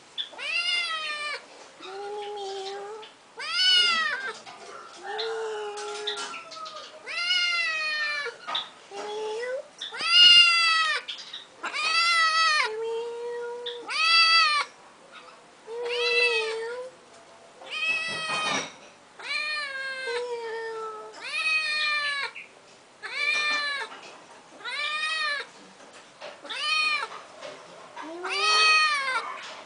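A domestic cat meowing over and over, about one meow every two seconds, each call rising and then falling in pitch.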